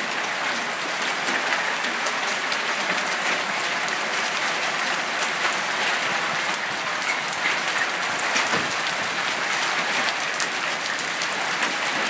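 Hail pelting down, a dense steady clatter of many small stone impacts.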